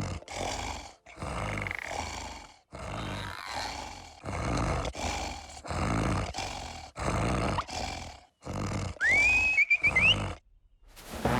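Cartoon sound effects: a string of short, rough roaring bursts with brief gaps between them, then a quick rising, warbling whistle near the end.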